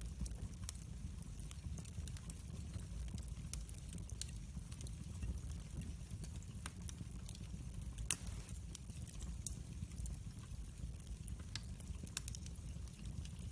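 Wood fire crackling: scattered small pops and snaps over a low steady rumble, with one louder pop about eight seconds in.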